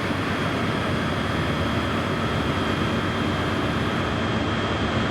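A Class 156 diesel multiple unit's underfloor diesel engines running steadily: a broad, even rumble with a thin steady high whine over it.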